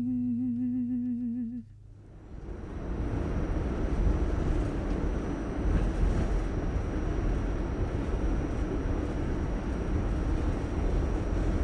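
The song's closing instrumental, a held wavering note over a steady bass, fades out about a second and a half in. A steady low rumbling noise then takes over, heavy in the bass with a faint thin high tone above it.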